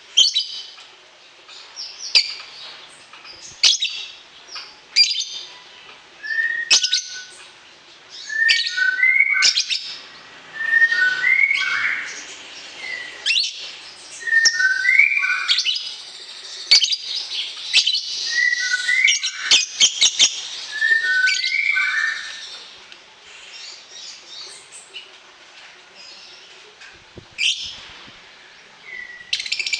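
Songbird chirping and calling: sharp high chirps throughout, with a short two-note whistled phrase repeated about every two seconds through the middle.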